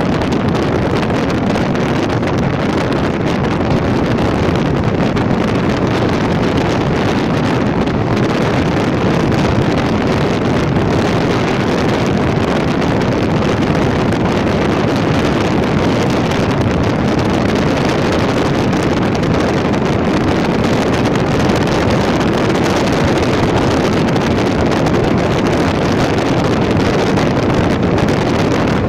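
Indian Railways passenger train running at speed, heard from an open coach doorway: a steady noise of the moving train mixed with wind buffeting the microphone.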